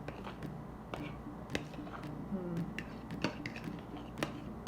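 Scattered light clicks and taps of a kitchen utensil against a plastic container, with a few louder knocks, as cream is poured and spread over a refrigerator cake base.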